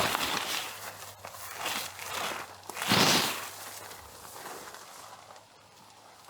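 A few crunching, rustling sounds, like steps or handling on a dry forest floor. The loudest comes about three seconds in, then they die away.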